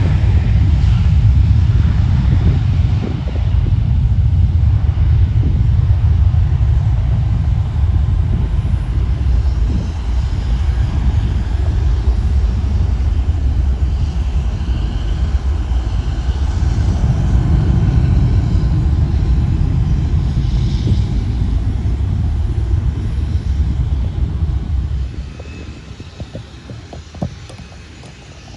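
Airliner engine rumble as an aircraft passes the airport, a loud, steady low rumble that drops away suddenly about 25 seconds in.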